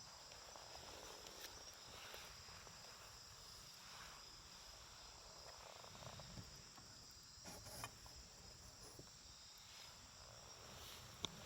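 Wood campfire crackling quietly with scattered small pops, a few sharper ones in the second half, the sharpest near the end. Steady high insect trilling runs underneath.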